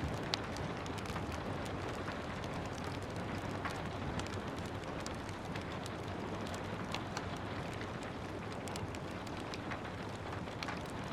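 Steady hiss of gentle rain, with the scattered sharp crackles and pops of a wood fire burning in a fireplace.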